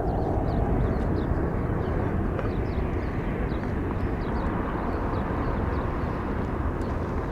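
Boeing 707-368C's Pratt & Whitney JT3D turbofans rumbling as the jet climbs away, a steady low roar that slowly eases. Faint short high chirps sound over it throughout.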